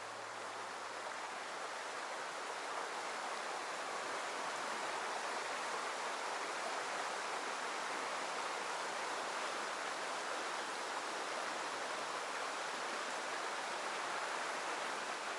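Mountain headwater stream rushing steadily, an even wash of water noise.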